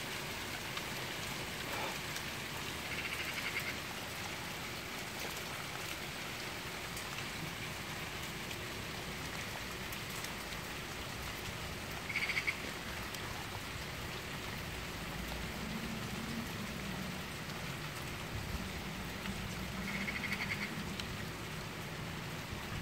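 Steady rain falling, a continuous hiss. A short trilling call cuts in three times over it, loudest about halfway through.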